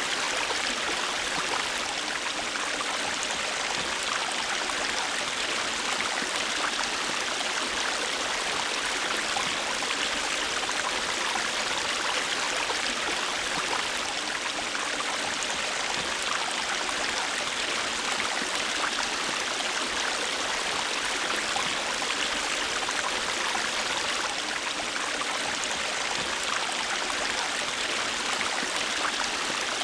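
River water flowing steadily: an even, unbroken rush with fine splashing flecks through it.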